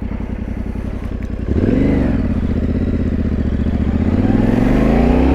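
Yamaha Ténéré 700's parallel-twin engine pulsing at low revs, then the throttle opens about a second and a half in and the engine note lifts; from about four seconds in it climbs steadily in pitch as the bike accelerates.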